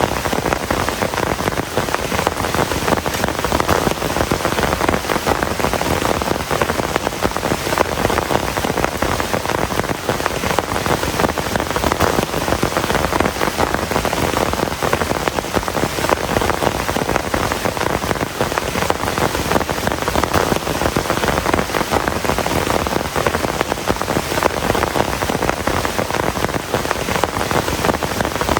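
Heavy rain falling steadily, a dense, even patter of countless drops striking a surface, with no break or change.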